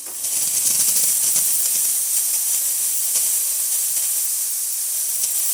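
Gaggia Classic espresso machine's steam wand opened and releasing steam: a steady loud hiss that starts suddenly and holds without letting up.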